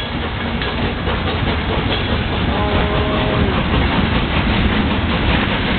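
Steam-hauled passenger train pulling out and running past at close range: a steady rumble with wheel clatter over rail joints. A short steady tone sounds for about a second midway through.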